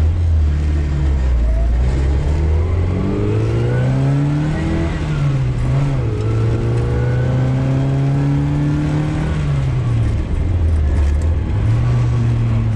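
Classic Austin Mini Countryman's A-series four-cylinder engine pulling under acceleration, its pitch climbing for several seconds, easing briefly, holding high, then dropping back toward idle about ten seconds in and picking up again near the end.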